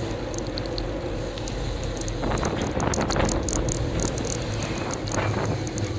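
Bicycle riding on a road: steady rumble and wind noise, with scattered crackling clicks and rattles.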